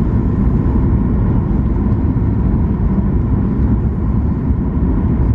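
Boeing 737 MAX 8 airliner's steady low rumble of engines and rushing air during landing.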